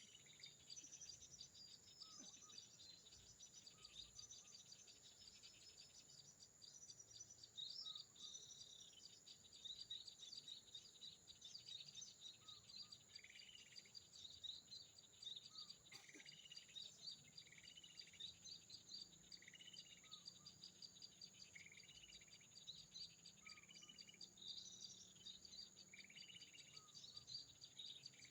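Sunbirds calling: short high chirps repeated every second or two, over a steady high insect trill, faint overall.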